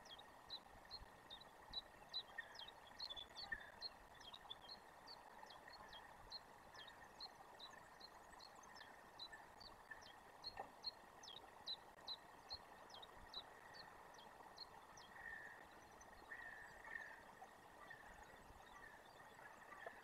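Faint, regular high chirping from a small animal, about two or three short chirps a second, over a quiet hiss.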